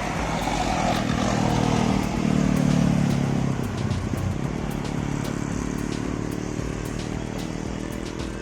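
Heavy truck's diesel engine pulling up a steep grade. It grows loudest about two to three and a half seconds in, then settles to a steadier, slightly quieter run.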